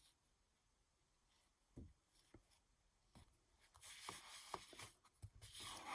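Faint handling of sheets of scrapbook paper: a few soft taps, then a light paper rustle with small clicks starting about four seconds in.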